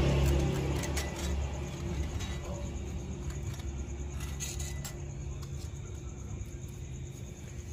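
A motorcycle engine running, loudest at the start, then fading steadily over about five seconds until only a faint background remains.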